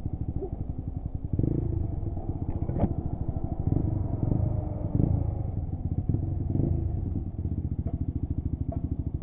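Lexmoto Assault 125's single-cylinder four-stroke engine running at low revs with a fast, even putter, swelling briefly a few times.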